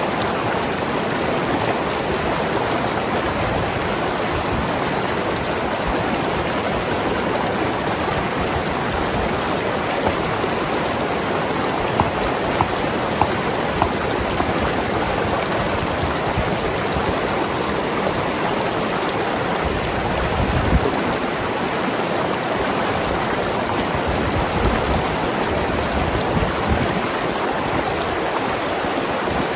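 Mountain river flowing and gurgling over rocks: a steady, even rush of water with small splashes here and there.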